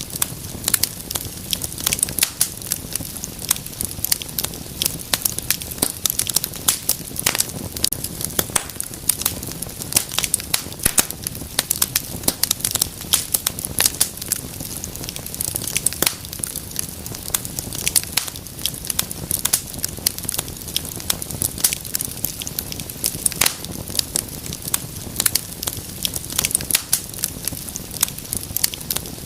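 Wood fire burning in a fireplace, with a continuous dense run of sharp pops and crackles over a low rumble of flame.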